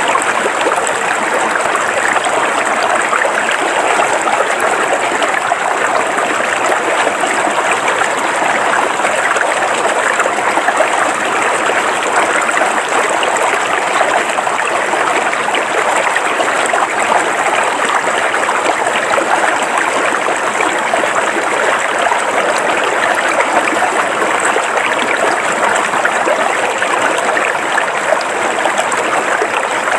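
River water flowing calmly over rocks, steady and unbroken.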